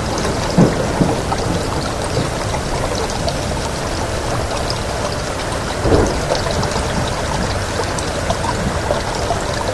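Steady heavy rainfall, an even hiss of many drops, with brief swells in level about half a second in, again at one second, and around six seconds.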